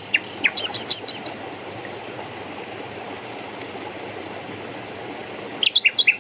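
Water running steadily in a stream. Over it, a songbird gives a quick series of high chirps in the first second or so, a faint thin whistle a little later, and a loud burst of chirps near the end.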